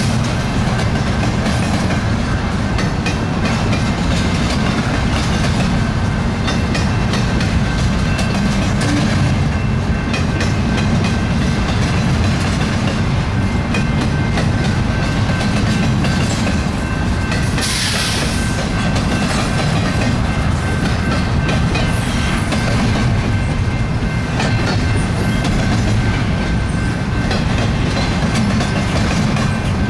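Double-stack intermodal well cars rolling past: a steady rumble of steel wheels on rail with clickety-clack over the joints. A brief hiss rises a little past halfway.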